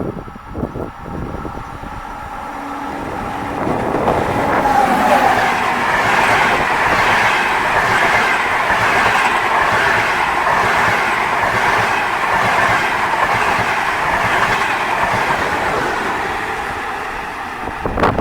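Train passing through the station without stopping: the noise builds over the first few seconds, then holds loud and steady as the carriages run by on the track.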